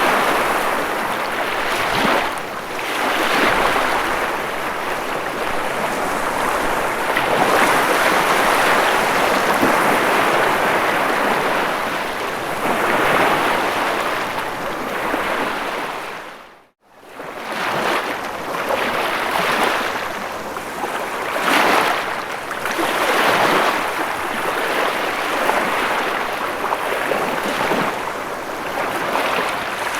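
Ocean waves washing on the shore in a continuous rush that swells and eases every few seconds. Just past halfway the sound fades to silence for about a second and then comes back in.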